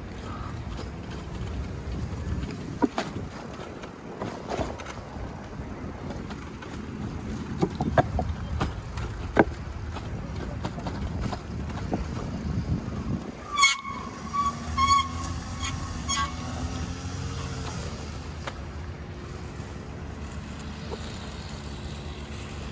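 City street traffic: a steady rumble of passing vehicles with scattered knocks, and a vehicle horn sounding a few short toots about two-thirds of the way through.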